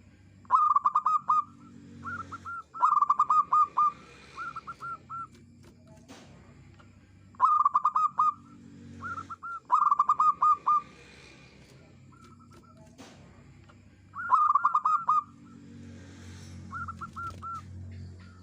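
Zebra dove singing: bursts of rapid, staccato cooing notes at one pitch, each burst about a second long, repeated every few seconds over a faint low hum.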